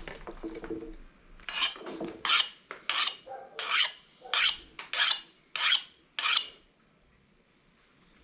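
Hand file rasping back and forth in eight quick strokes, about one and a half a second, then stopping.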